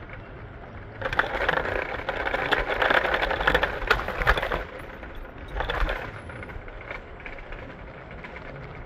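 Train car in motion, rattling and clattering with a steady low rumble; the clatter is loudest for a few seconds about a second in, with a shorter burst near the middle.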